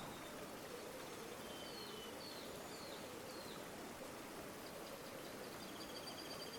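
River water flowing with a steady rush and a gently wavering gurgle. A few short high bird chirps come in the middle, and a rapid high trill near the end.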